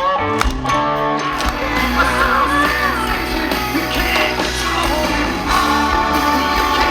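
Live rock band playing, electric guitar to the fore, with a voice singing from about two seconds in.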